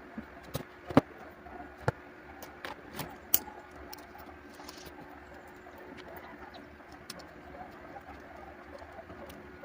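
Pigeons or doves cooing faintly in the background, with several sharp clicks or taps in the first few seconds, the loudest about a second in and near three and a half seconds.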